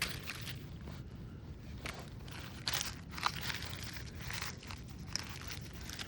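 Irregular crunching and rustling of dry ground cover and soil being disturbed, a few sharper crunches near the middle.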